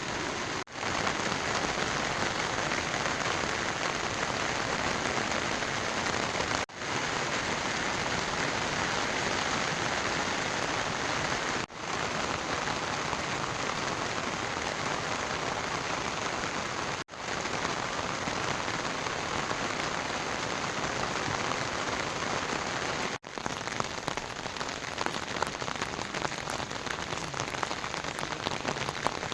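Heavy rain falling steadily, a dense even hiss, broken by short dropouts every five or six seconds. Near the end it thins, and single drops stand out as separate taps.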